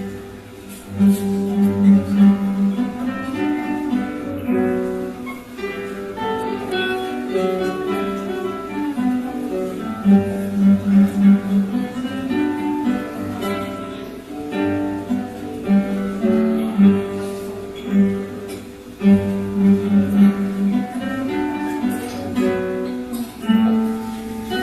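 Three acoustic guitars playing an ensemble piece together: a plucked melody and chords over runs of repeated low notes that recur every several seconds.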